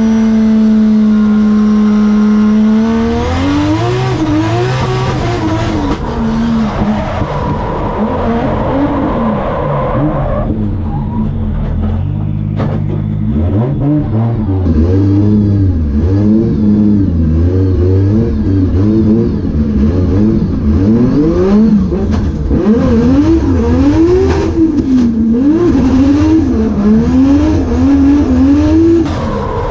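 Pro drift car's 3.4-litre stroker 2JZ straight-six, a 950-horsepower build, held at steady high revs for about three seconds. It then revs up and down again and again, the engine note rising and falling every second or two as the car is drifted.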